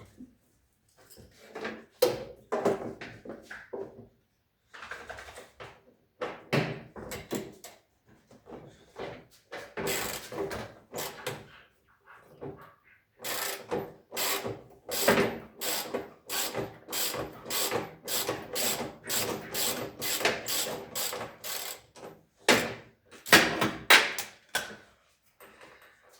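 Repeated metallic strokes of a hand tool working on a front-loading washing machine's drum assembly during a spider replacement: irregular clusters at first, then a steady run of about two strokes a second through the middle.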